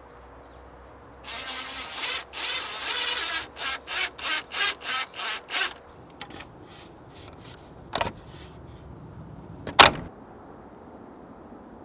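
Hand saw cutting wood: a stretch of rasping followed by a run of short back-and-forth strokes, about three a second. Two sharp knocks come near the end.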